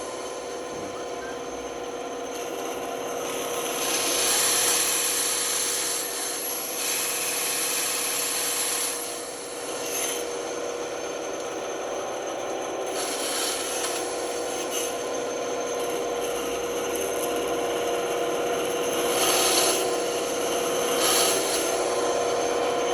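Power tool running steadily with a constant motor hum while working wood, with rasping, rubbing passes that swell and fade several times.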